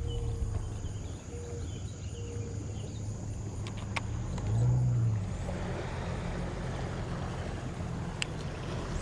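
Boat motor humming steadily at low speed, with a sharp click about four seconds in and a brief louder swell just after it; a rougher wash of noise joins in for the second half.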